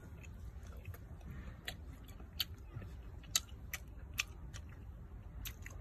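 A person chewing a big mouthful of seafood close to the microphone, with a handful of sharp, wet clicks from the mouth and food.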